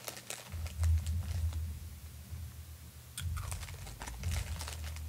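Fritos corn chips crunching while being chewed: two spells of crisp crunches over a low rumble, the first about half a second in and the second from about three seconds in.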